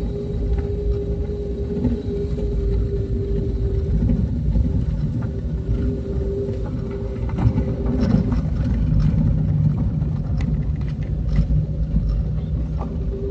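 Vehicle driving along a road: a steady engine hum over a low rumble, with scattered knocks and rattles in the second half. About two-thirds of the way in, the hum gives way to a lower steady tone.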